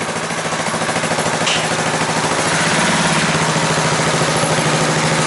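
Suzuki Savage LS650's single-cylinder engine running with an even, rapid pulse. Its revs and loudness pick up a little about two and a half seconds in, then hold steady.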